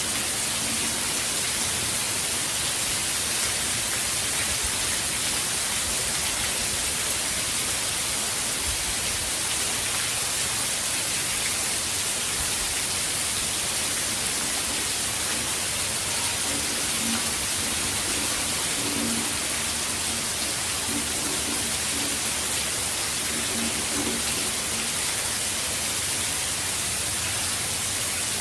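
Heavy rain from a hurricane falling in a steady, unbroken hiss.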